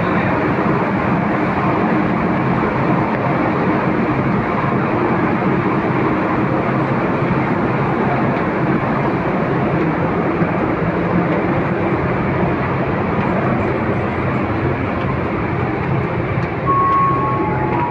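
Steady, loud drone of a car ferry's engines heard from inside the ship: a dense, unchanging rumble with a low hum running through it.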